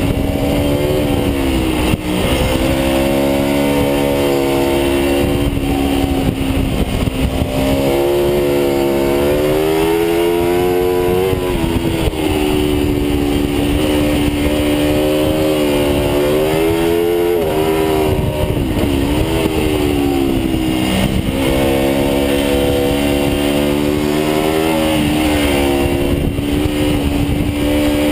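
Aprilia RSV4's V4 engine running hard under way, heard from on board the motorcycle. Its pitch rises and falls several times as the throttle opens and closes, over a steady rush of wind and road noise.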